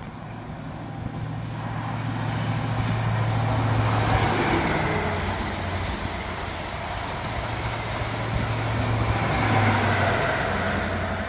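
A train passing, its steady low hum swelling twice as it goes by, with a faint high whine sliding down each time.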